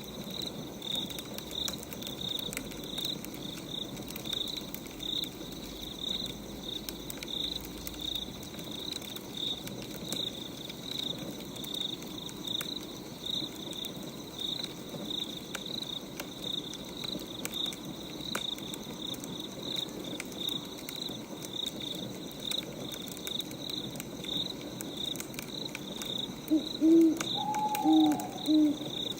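Night ambience of crickets chirping in a steady pulse, about two or three chirps a second, over the scattered crackle of a wood fire. Near the end an owl hoots three times.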